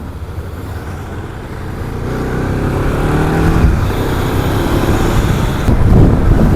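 KTM 690 Duke single-cylinder motorcycle engine accelerating, its pitch rising as it revs up and growing louder, with wind rush building on the helmet microphone toward the end.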